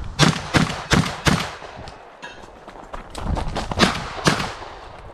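Beretta 1301 12-gauge semi-automatic shotgun firing in rapid succession: four quick shots in the first second and a half, a short pause, then two more shots near the end.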